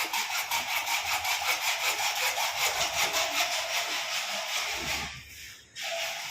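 Fast rhythmic rasping, about five strokes a second, that breaks off briefly near the end and then starts again.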